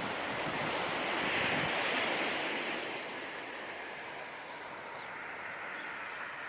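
Small sea waves washing onto the beach, one swelling about a second in and easing off after a couple of seconds, then a steady low wash.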